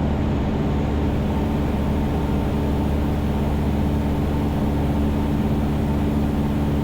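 Cessna 172's piston engine and propeller droning steadily in level cruise flight.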